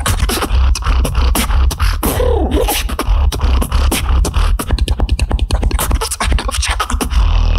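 Solo beatboxing: rapid, dense kick, snare and hi-hat mouth sounds over a heavy continuous bass, with a brief wavering vocal tone about two seconds in.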